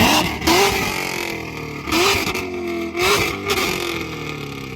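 Single-cab pickup truck's engine revved hard in about four sharp bursts, each a quick rise in pitch that falls away again, dying down near the end.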